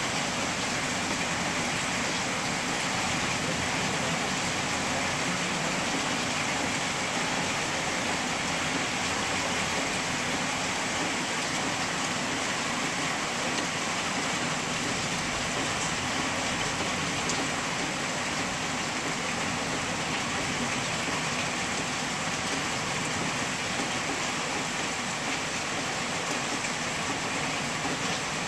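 Heavy rain pouring down on trees and gardens, a steady, unbroken hiss.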